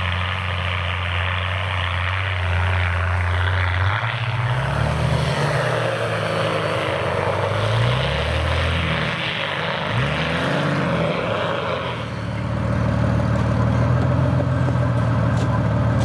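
A 4x4 off-roader's engine revving under load on a steep snowy climb. It starts on a steady low note, then rises and falls in pitch several times, and from about twelve seconds in holds a louder, higher note.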